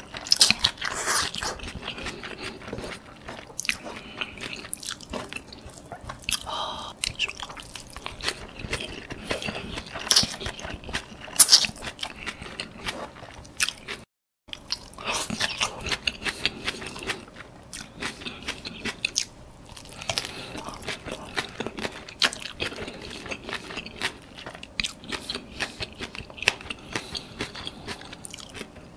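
Close-miked mouth sounds of eating pad thai rice noodles with bean sprouts and prawns: wet chewing, smacking and small crunches in an irregular stream. The sound drops out completely for a moment about halfway through.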